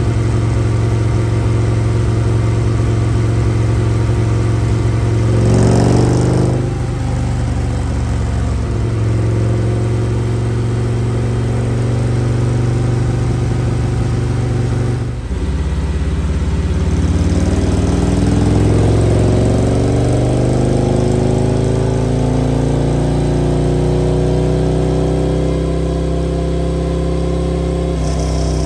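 Harley-Davidson Street Glide's V-twin running on a dynamometer during tuning. It holds steady, rises and falls briefly about six seconds in, dips for a moment about halfway, then climbs gradually in revs over several seconds and holds there.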